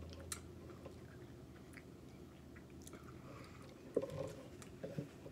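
Close-miked chewing of fresh strawberries, faint, with soft wet mouth clicks and smacks; a slightly louder mouth sound comes about four seconds in.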